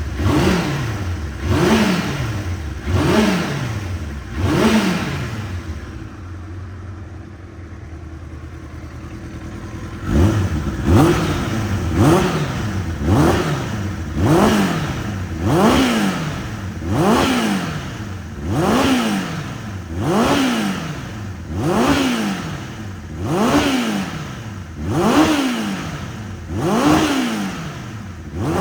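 Kawasaki ZXR750R K's inline-four engine, through a full Micron exhaust, blipped repeatedly: quick revs that rise and fall back about once a second. Five blips are followed by a few seconds of idle, then the blipping resumes in a steady run.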